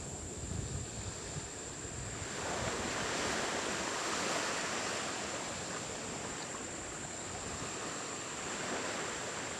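Steady rushing noise that swells about two seconds in and slowly eases off, with a thin, steady high-pitched whine above it.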